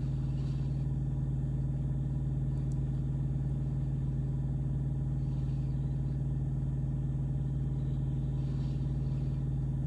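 Truck engine running at a steady pace while driving, heard from inside the cab as an even, unchanging low drone.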